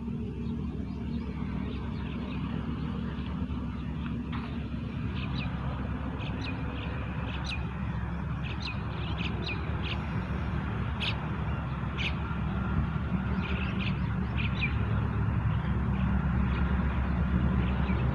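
Low steady rumble of an approaching HGMU-30 diesel-electric locomotive, growing gradually louder, with birds chirping now and then.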